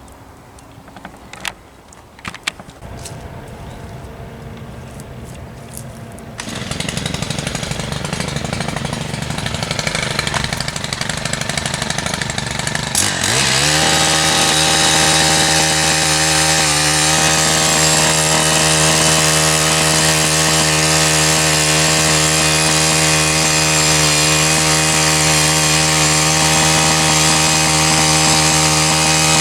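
An engine that builds up over several seconds, rises in pitch about thirteen seconds in, then holds a steady high-revving drone.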